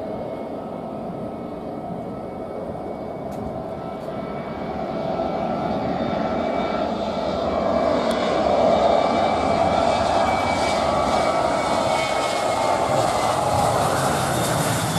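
Passenger airliner's engines, growing louder over the first half and then staying loud as the plane comes close, with a whine sliding slowly in pitch over the engine noise.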